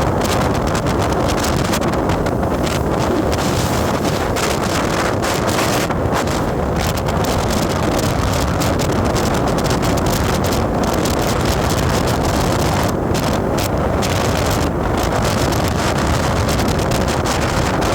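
Steady wind buffeting the microphone with the rush of a moving vehicle beneath it, as on the road at speed.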